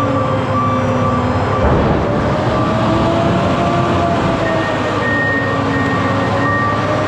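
Vehicle driving at road speed: steady road and running noise with a wavering whine.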